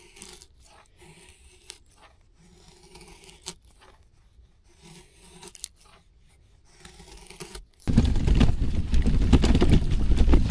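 Faint scrapes, clicks and rustles of handling. About eight seconds in, a loud rough rushing noise with a deep rumble starts abruptly and keeps going.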